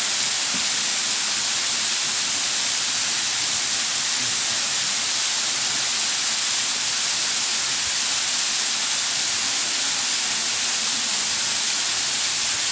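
Waterfall's rushing water: a steady, unbroken hiss.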